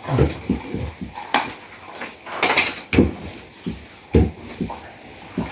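Kitchen knife cutting raw beef into portions, with irregular knocks of the blade against the surface beneath and a few sharper clicks.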